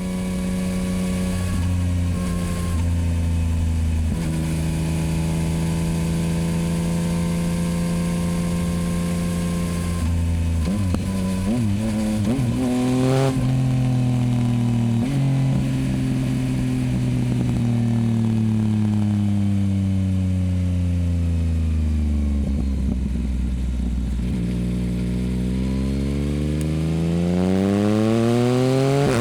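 Yamaha MT-09's three-cylinder engine through a Dominator HP8 aftermarket exhaust, under way: the engine note climbs and drops sharply about 13 seconds in, falls away slowly as the bike slows, then rises steadily again under acceleration near the end.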